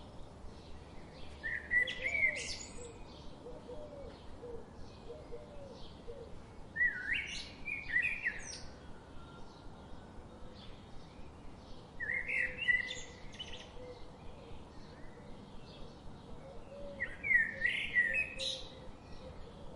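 A songbird sings a short, loud phrase four times, about every five seconds, over a steady background of faint short chirps repeating about twice a second.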